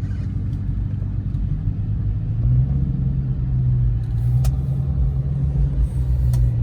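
A car engine running with a low, steady rumble that grows a little louder and higher about two and a half seconds in.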